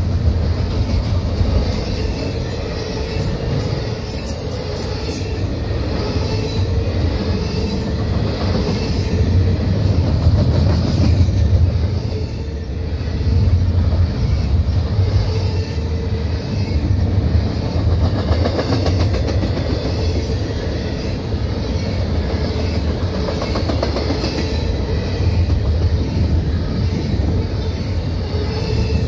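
CSX double-stack container train's well cars rolling past close by: a steady rumble of steel wheels on the rails, with a steady hum running under it.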